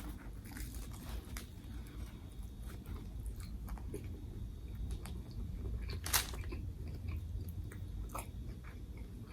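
Close-up chewing of a banh mi, the baguette crust giving soft crunches and wet mouth clicks, with one louder crunch about six seconds in.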